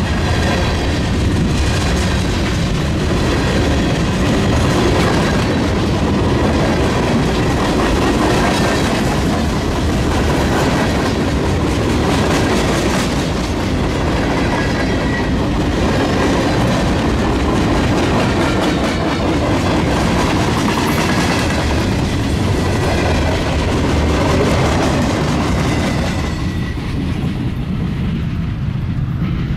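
Rail cars rolling along the track, wheels clattering over the rail joints over a steady low rumble. The clatter thins out shortly before the end.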